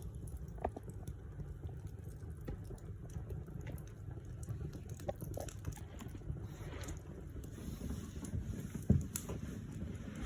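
Log fire burning in a fireplace: a steady low rumble of flames with scattered crackles and small pops, and one louder pop about nine seconds in.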